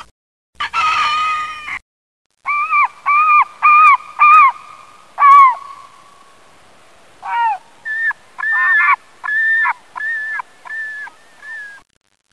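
Geese honking: a brief harsh call, then a run of short pitched honks about two a second, a pause, and a second run of shorter, higher honks.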